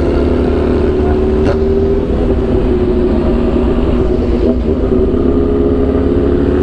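Motorcycle engine running at a steady cruising speed while riding, its note holding nearly constant pitch.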